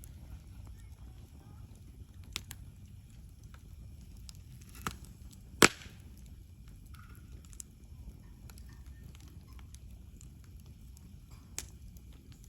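Wood campfire crackling, with a handful of sharp pops, the loudest about halfway through, over a low steady rumble.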